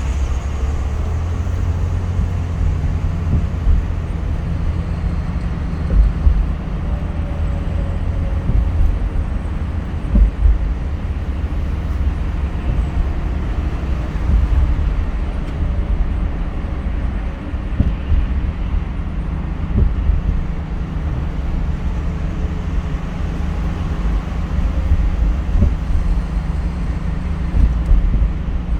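A car driving along a road: a steady low rumble of road and engine noise with occasional small thumps.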